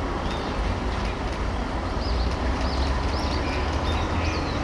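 Steady low rumble of police vehicles driving past in a parade, over a background hubbub, with a run of short high chirps repeating about twice a second from about halfway through.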